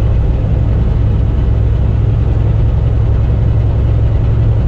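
Semi-truck diesel engine and road noise heard inside the cab while driving on the highway: a steady, unchanging low rumble.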